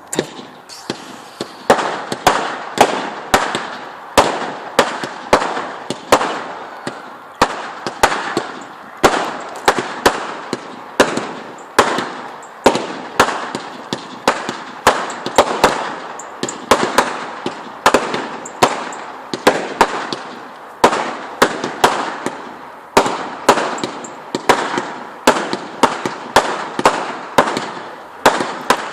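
Fireworks going off in a steady run of sharp bangs, about two a second, with crackling between them.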